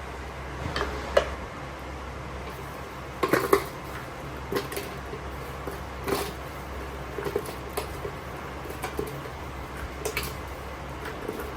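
Kitchen dishes and utensils clinking and knocking: a scatter of short sharp clinks, the loudest about one and three and a half seconds in, over a steady low hum.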